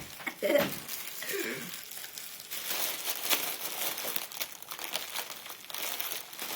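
Crinkling and rustling of a helium balloon being handled and squeezed, with a few brief high-pitched vocal sounds in the first second or so.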